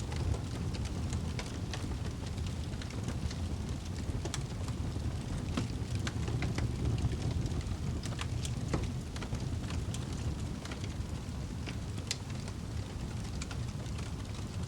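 A wood fire burning: a steady low rumble of flames with frequent sharp crackles and pops at irregular times.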